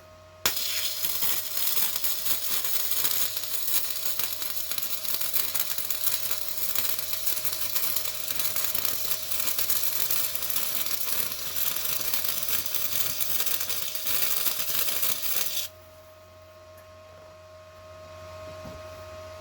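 Electric welding arc crackling in a continuous, uneven sizzle for about fifteen seconds as a weld is run on the mower deck gauge wheel arm. It starts about half a second in and cuts off suddenly.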